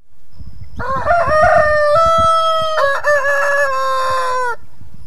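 Rooster crowing: one long drawn-out crow with a brief break partway through, falling in pitch at the end, over a low rumbling background noise.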